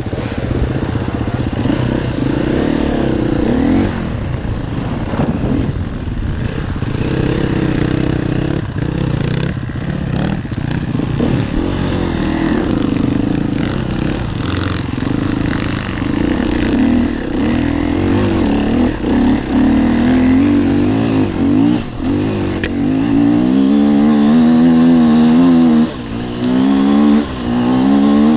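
Enduro dirt bike engine revving up and down as it is ridden, the revs rising and falling continually. Near the end it gets louder and holds higher revs, broken by two brief drops in throttle.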